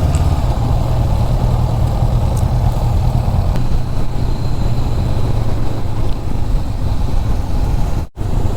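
Motorcycle underway: a steady low rumble of wind on the microphone over the running engine. The sound cuts out briefly near the end.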